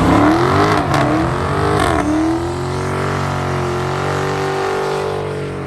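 Car engine revving hard: two quick revs, then held at high revs for a few seconds, easing down near the end.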